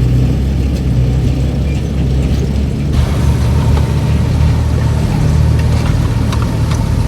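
Komatsu D31PX bulldozer's diesel engine running steadily under work, with scattered faint clicks. A faint steady whine joins about three seconds in.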